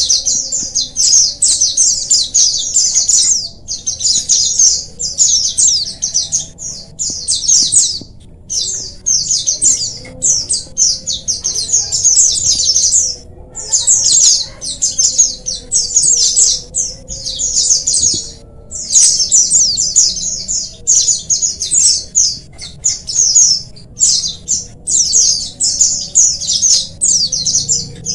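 A colony of white-eyes (pleci) chirping and twittering together: rapid, high-pitched song phrases of a second or two follow one another closely, with only brief pauses.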